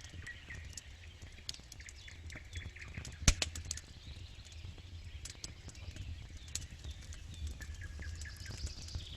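Campfire crackling, with scattered small pops and one louder snap about three seconds in.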